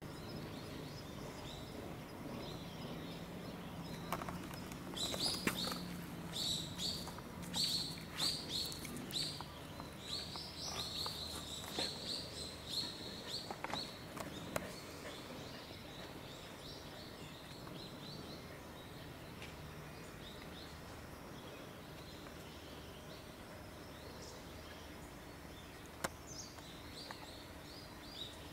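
Birds chirping: a busy run of short, repeated chirps from about five seconds in until about fifteen seconds, then only a few scattered chirps, over a steady outdoor background hum.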